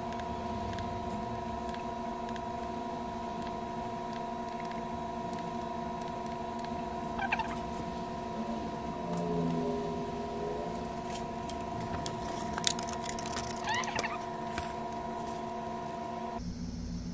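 A steady electrical hum made of several fixed tones, with a few faint clicks and short squeaks over it. The hum cuts off suddenly near the end.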